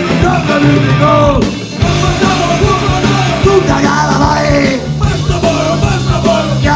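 Live punk rock band playing a loud full-band passage: guitars, bass and drums with a melody line over sustained low notes.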